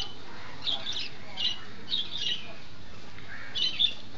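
A bird calling in short, high notes, a run of them about half a second apart, then a pause and two more close together near the end.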